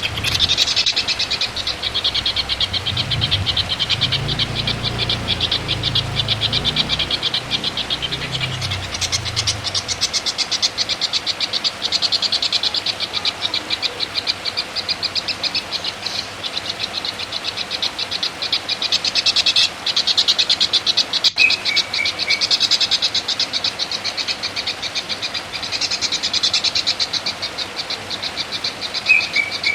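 An animal's continuous, high-pitched rapid trill, pulsing many times a second, with a few short lower chirps about two-thirds of the way through and near the end.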